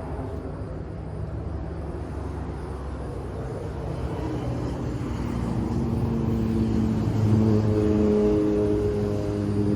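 Yamaha V Star 950's air-cooled V-twin running through an aftermarket Cobra exhaust. It grows louder from about halfway through, its pitch edging slowly up.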